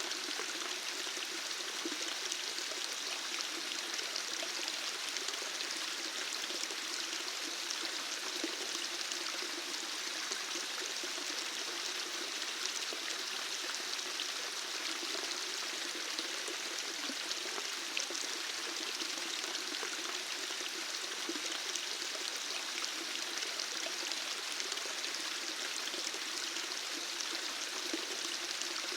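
Running water flowing steadily, an even, unbroken splashing rush with a flickering, bubbling low undertone.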